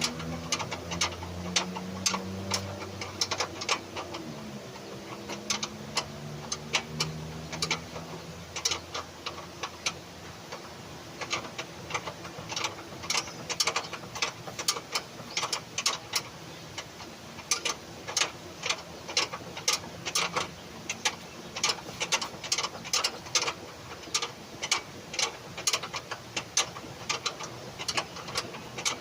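Irregular bursts of sharp metallic clicking from a ratchet wrench working on the engine mount bolts. Over the first several seconds a low engine hum wavers in pitch and fades out.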